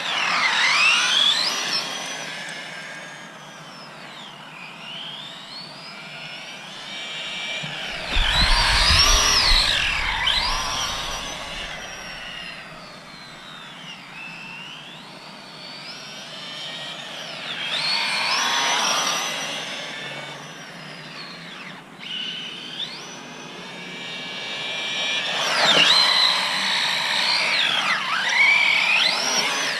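Small RC mini truck's electric motor whining, gliding up and down in pitch as it speeds up and slows through drifts, growing louder in passes about every eight seconds. A low rumble joins one pass about eight seconds in.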